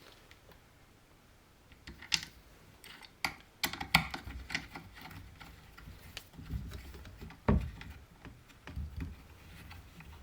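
Small metallic clicks and taps of hand-tool work as a screw is fitted and driven into the chainsaw's handle assembly with an Allen key, with one sharper knock about seven and a half seconds in.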